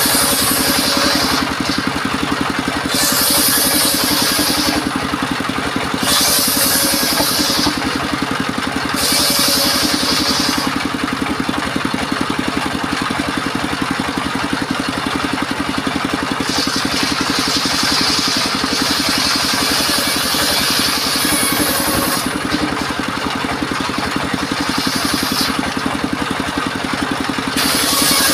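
Engine of a portable circular sawmill running steadily while the saw rips timber into battens and rafters. Each cut is a hissing, high-pitched burst lasting one to two seconds, repeated several times with a longer pause near the middle.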